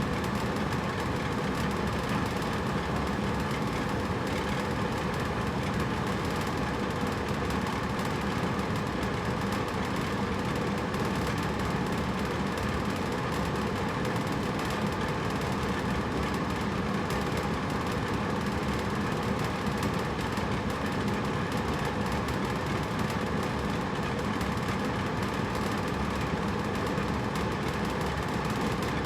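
Hotel room air conditioner running steadily: an even, unchanging rush of fan and airflow with a low hum.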